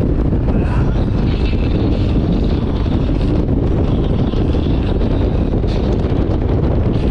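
Steady wind rumble buffeting the microphone on a moving motorcycle, with road and engine noise underneath.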